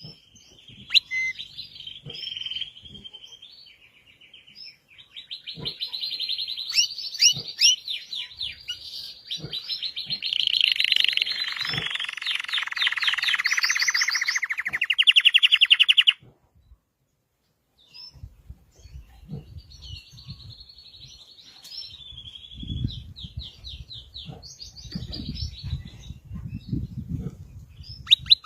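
Red canary singing: long chirping phrases with fast trills. The song breaks off abruptly a little past halfway, then comes back more softly over a low, rapid pulsing.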